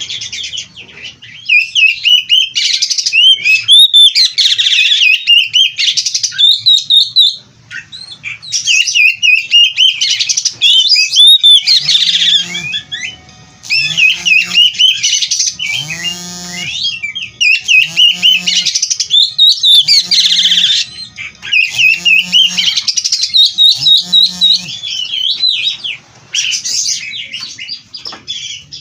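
Oriental magpie-robin singing loud, rapid phrases of whistles, trills and chirps, full of mimicked calls. From about twelve seconds in, a lower pitched call repeats about once a second beneath the song for some thirteen seconds.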